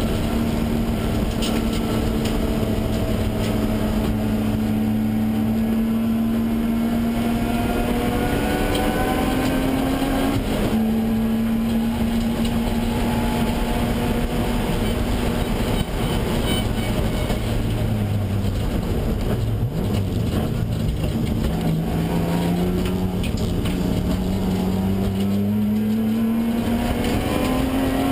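Car engine heard from inside the cabin while driving hard on a race track, its pitch rising and falling with throttle and gear changes over steady road and wind noise. The pitch climbs steadily near the end.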